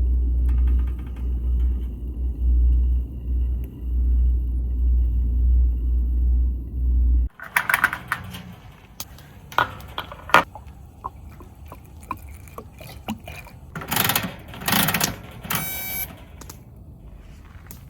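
A low rumble, like wind buffeting the microphone, cuts off suddenly about seven seconds in. It gives way to scattered clicks, clinks and knocks of small objects being handled, with a couple of louder clattering bursts near the end.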